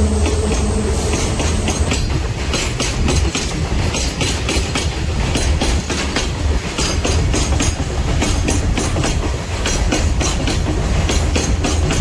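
A train passing close by: a heavy steady rumble with wheels clattering rapidly over the rail joints. A steady engine hum fades out about two seconds in.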